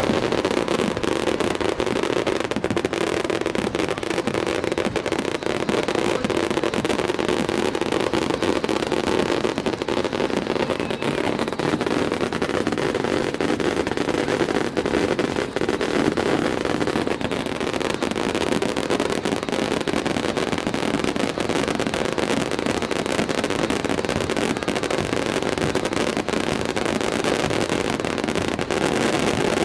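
A small engine running steadily with a dense crackle of rapid clicks and no clear change in pace.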